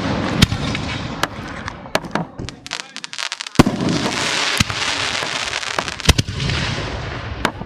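A professional aerial fireworks display: shells going off in a string of sharp, loud reports, with a quick run of rapid pops about two and a half seconds in and a steady hiss between the bangs.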